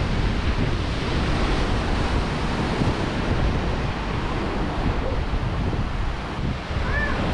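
Ocean surf washing against rocky coast, mixed with wind buffeting the microphone in a steady loud rush.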